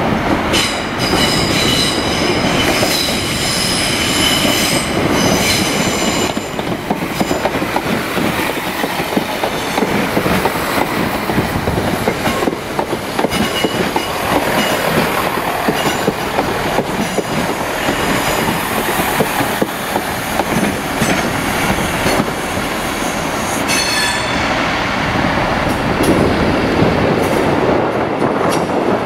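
Chiltern Railways multiple unit, Class 168 hybrid 168329 coupled to Class 165 165020, running slowly past over curved track and points. High-pitched wheel squeal fills the first six seconds and returns briefly about 24 seconds in. Between the squeals the wheels rumble and click over the pointwork.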